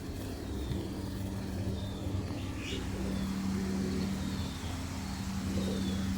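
Steady low motor hum, with faint chirps of small birds over it.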